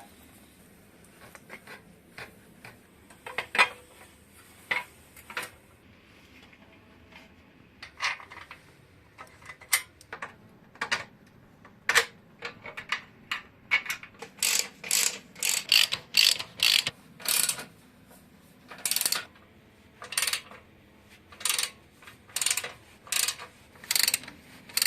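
Hand tools working on metal motorcycle parts: a run of short clicks and rasping strokes, sparse at first and coming faster and louder in the second half.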